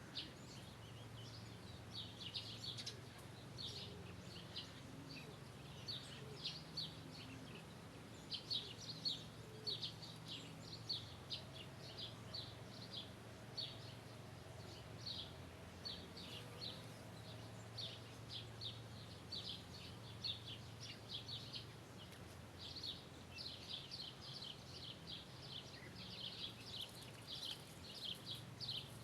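Birds chirping: many short, high chirps repeated throughout, over a faint steady low hum.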